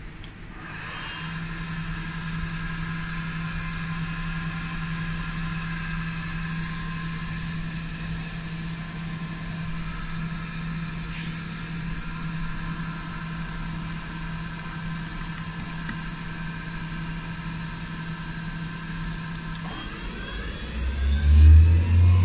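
Schaublin 110-CNC lathe running: a steady machine whine made of several held tones starts about half a second in. About 20 seconds in, the pitch sweeps upward as the machine changes speed, and a loud low hum follows.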